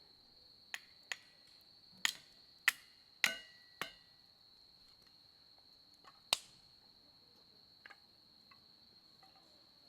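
Firewood in a campfire popping with sharp cracks, about six in the first four seconds and another loud one a little after six seconds. A steady high insect trill runs underneath.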